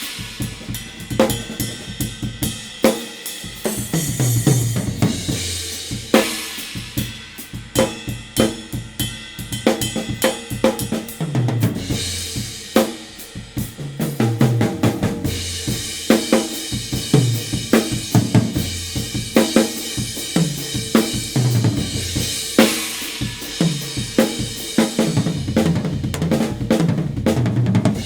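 Acoustic drum kit played, with grooves and fills: kick and snare strokes, tom hits and hi-hat under crashing and ringing Anatolian Turkish cymbals.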